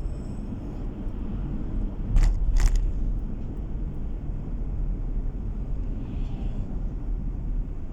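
Steady low road and engine rumble inside a moving car, with two sharp knocks about half a second apart a couple of seconds in.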